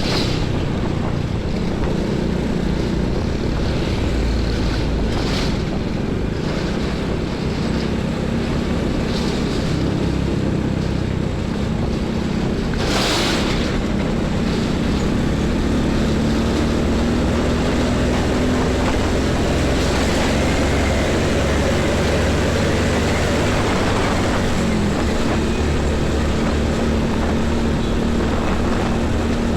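Heavy highway traffic passing close by: diesel truck and bus engines running, with their pitch slowly shifting as they go past, over continuous road rumble. A short hiss about thirteen seconds in.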